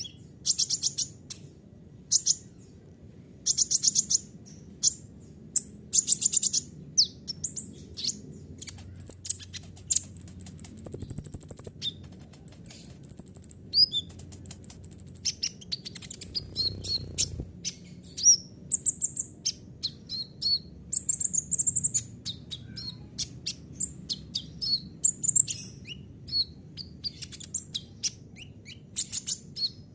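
Kolibri ninja sunbird singing a fast, varied song of very high chirps, rapid trills and sharp notes. A long, high rattling trill runs from about ten to fifteen seconds in. A faint low hum sits underneath.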